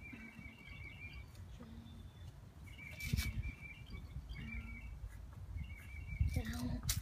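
A bird calling over and over, a short wavering phrase repeated about every second and a half, over a low rumble of wind on the microphone. Two short knocks break in, about three seconds in and near the end.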